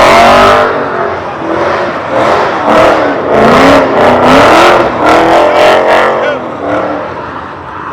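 Car engine revving hard several times, its pitch rising and falling with each rev, then fading toward the end.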